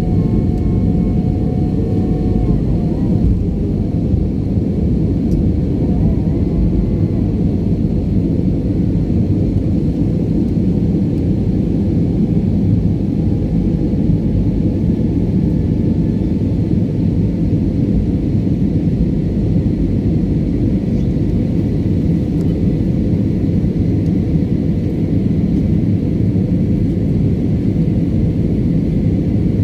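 Airliner's jet engines and airframe rumbling steadily during takeoff, heard from inside the passenger cabin as a loud, even low roar.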